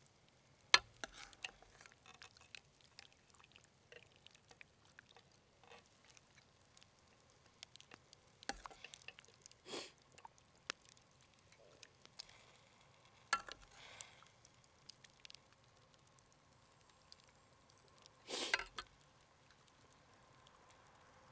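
Cookware and utensils being handled at a campfire cooking pot: sparse sharp clicks and knocks, the loudest about a second in, with a few brief scraping or pouring sounds about halfway through and near the end.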